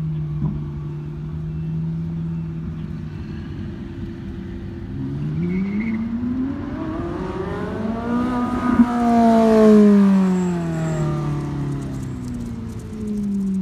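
Ferrari 458 Italia's V8 engine under hard acceleration: a steady note at first, revs climbing from about five seconds in, loudest around ten seconds in as the car goes by, then the pitch falls away and climbs again near the end.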